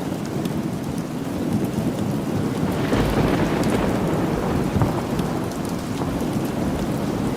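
Steady rain falling, with a low rumble of thunder that swells about three seconds in.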